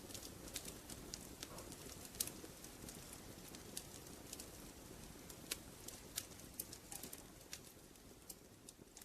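Wood fire crackling in a fireplace: a steady low rumble of burning with irregular sharp pops and snaps, the loudest about two seconds in, growing slightly fainter near the end.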